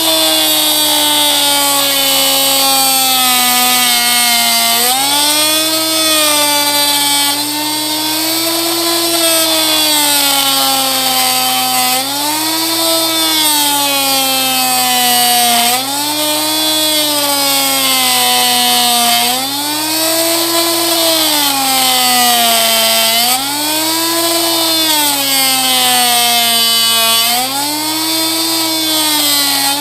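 Oscillating multi-tool running and cutting into wood, parting a bowl from its waste block. Its whine slowly drops in pitch and then jumps back up, every three to four seconds. A steady low hum runs underneath.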